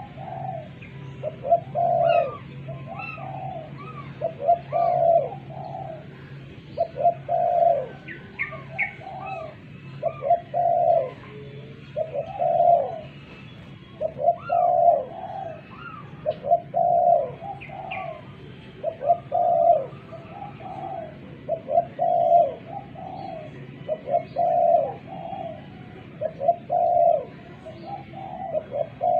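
Spotted dove cooing over and over, a phrase of several coo notes about every two to three seconds, with fainter high chirps from small birds in between.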